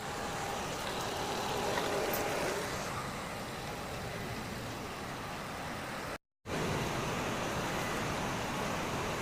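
Robot vacuum cleaner running as it cleans the floor: the steady noise of its motor and brushes, broken off once for a moment about six seconds in.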